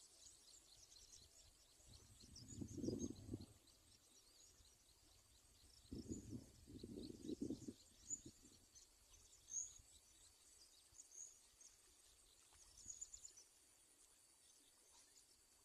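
Faint chorus of night insects chirping, high and continuous, with two short bursts of low noise about three seconds in and again from six to eight seconds.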